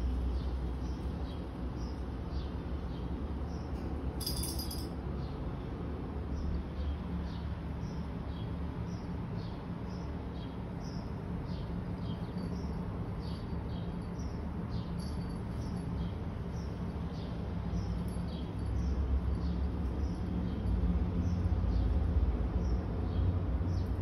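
Small birds chirping again and again in short, high, downward-sliding notes, over a steady low rumble that grows louder near the end.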